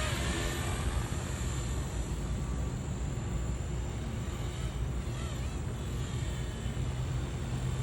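Blade 235 CP electric RC helicopter flying, its motor and rotor whirring steadily at the lower head speed of its normal 'putt-putt' flight mode.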